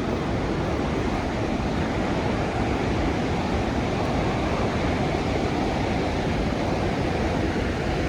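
The Rhine Falls, a large river waterfall, pouring steadily: an even, unbroken rush of water with a deep rumble underneath.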